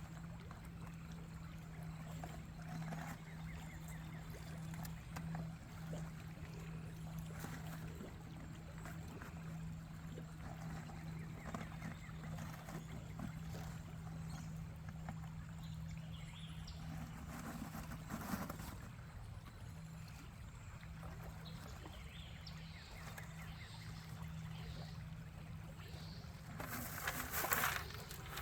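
Creek water flowing and trickling, with a faint steady low hum throughout and a brief louder rush of noise near the end.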